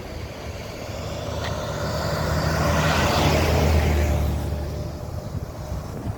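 A road vehicle passes by. Its engine hum and tyre noise swell to a peak about three to four seconds in, then fade away.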